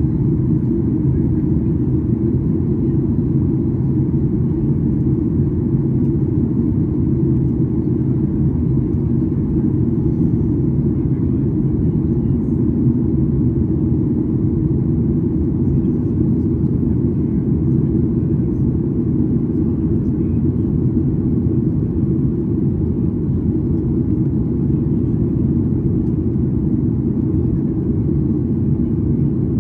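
Steady low drone inside the cabin of a Boeing 737-800 in flight: engine and airflow noise that stays even throughout.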